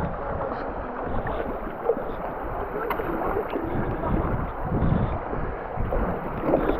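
River water rushing and splashing around an inflatable kayak as it runs a small, shallow rapid.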